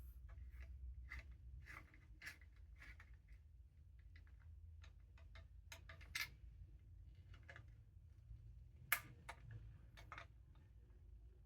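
Faint, scattered clicks and light taps of small parts being handled while a motorcycle taillight assembly is fitted, with one sharper click about nine seconds in, over a faint low hum.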